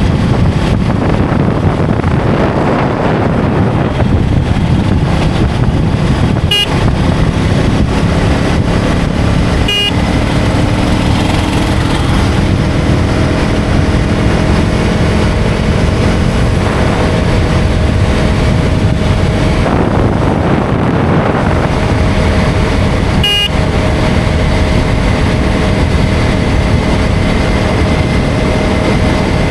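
KTM Duke 250's single-cylinder engine running under way, with heavy wind and road noise. The engine note rises and falls with the throttle, and three sharp clicks cut through it.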